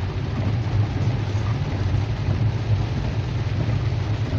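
A car driving through standing floodwater, heard from inside the cabin: a steady low rumble of engine and tyres under an even hiss of water.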